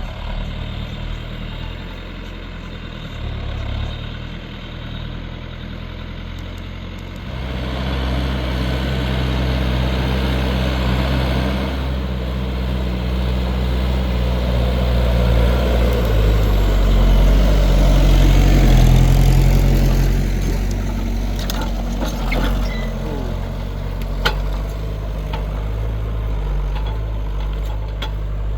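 New Holland TL100 tractor's diesel engine working under load while pulling a plough through hard, compacted ground. It gets louder about seven seconds in, runs hardest a little past halfway, then eases slightly, with a few sharp knocks near the end.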